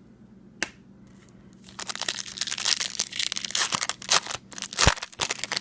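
Foil wrapper of a baseball card pack crinkling and tearing open: a dense run of crackles starting about two seconds in, with a few sharper, louder snaps near the end.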